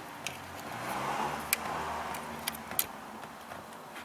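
A car engine running, its sound swelling about a second in and easing off toward the end, with a few light clicks.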